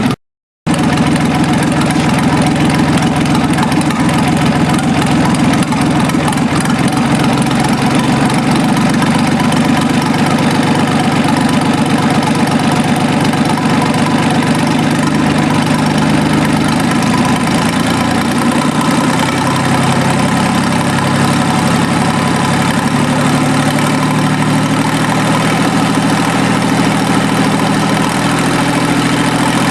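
QC385 three-cylinder stationary diesel engine idling steadily while it warms up, with a brief half-second gap in the sound just after the start.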